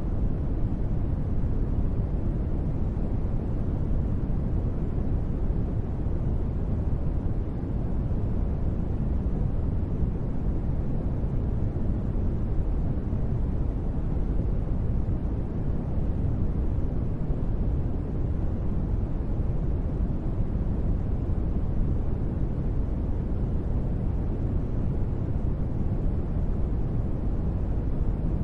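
Steady synthesized ambient noise, deep and dark, weighted to the low end rather than a bright hiss, with no change in level or pitch throughout.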